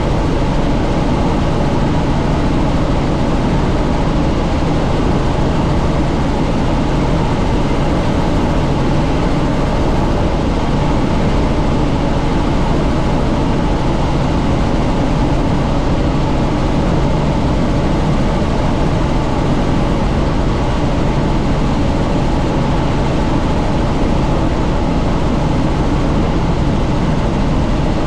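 Helicopter in steady cruise flight heard from inside the cabin with the doors off: a constant loud drone of engine and rotor mixed with wind rush.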